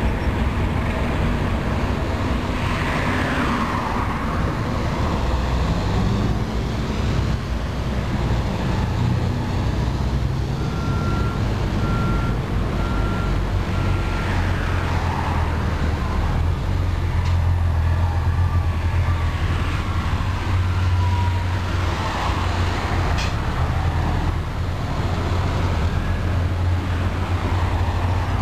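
Circus train passenger cars rolling past: a steady rumble of steel wheels on rail. A low hum grows stronger after the middle, and a few falling whines come and go.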